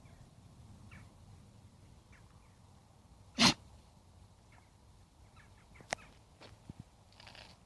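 Dogs at play: one short, loud burst of sound from a dog about three and a half seconds in, among faint high squeaks and a few light clicks.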